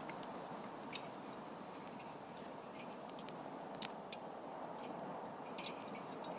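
Wood campfire burning: a steady hiss of flames with irregular sharp crackles and pops from the firewood.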